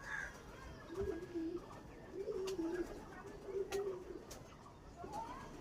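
Domestic pigeons cooing in a loft: a few low, wavering coo phrases about a second apart, with occasional sharp clicks.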